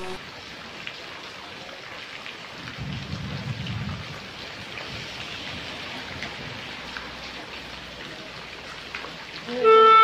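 Steady rain falling onto a muddy puddle and ground, with scattered drop ticks and a low rumble of thunder about three seconds in that lasts about a second. Just before the end a loud held chord of horn-like tones cuts in.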